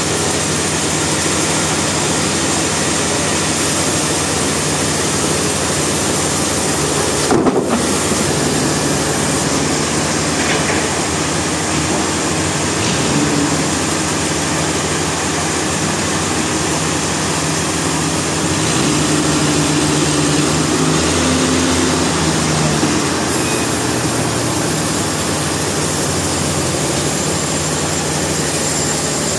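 Sawmill machinery running steadily and loudly, with a brief drop-out about seven seconds in.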